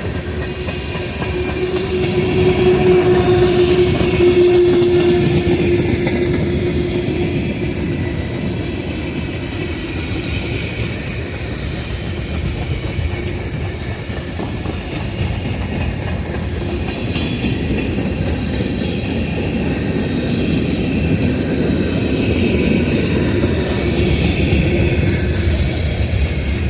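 Freight train cars rolling past, their wheels rumbling and clacking steadily over the rails. A steady tone rings out over the first few seconds and again near the end.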